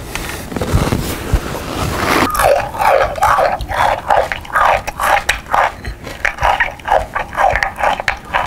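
Exaggerated chewing and munching mouth noises amplified through a handheld megaphone, tinny with the bass cut out, coming in rapid bursts of two or three a second from about two seconds in.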